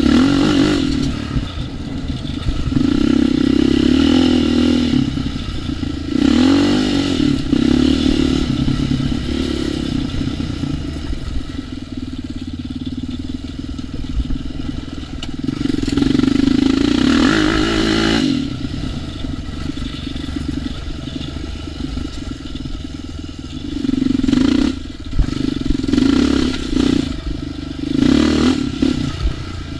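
ATV engine revving up and down repeatedly while riding a trail, with several louder bursts of throttle and some clattering from the machine over rough ground.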